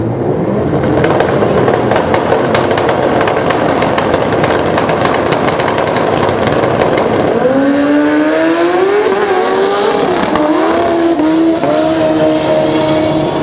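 Pro Street drag-racing motorcycle engine running hard: a loud, rough, crackling run, then from about halfway a clear engine note that rises, dips and climbs again, like shifts through the gears, before holding steady near the end.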